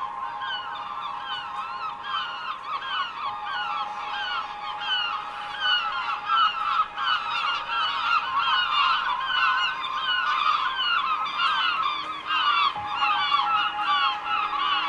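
A large flock of birds calling: many short, overlapping calls that grow louder and denser about five seconds in, over a faint steady hum.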